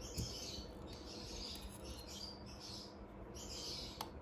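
Faint, irregular bird chirping in the background, over a low steady hum, with a light click about four seconds in.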